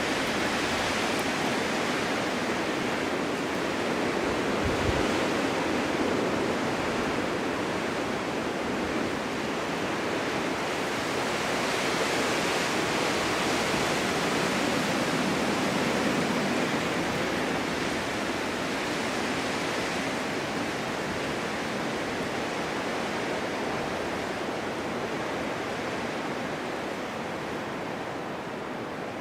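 Snowstorm wind blowing steadily as a full, even rush that swells and eases in slow gusts, with a brief low thump about five seconds in.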